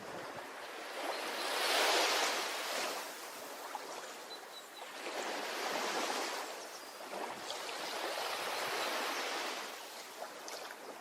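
Ocean waves washing onto a beach, the surf rushing up and fading in three swells, the first and loudest about two seconds in.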